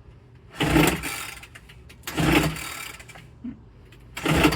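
Three pulls on the recoil starter of a Homelite UT08572 backpack leaf blower's 30cc two-stroke engine, each a short rasping crank about a second and a half apart. The engine turns over but does not catch, on a spark plug found wet and fouled from too much fuel.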